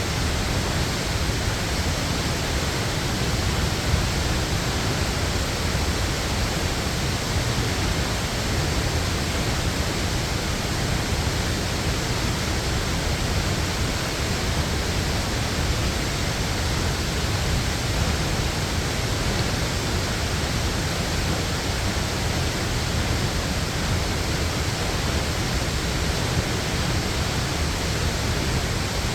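Waterfall, a steady, even roar of falling water.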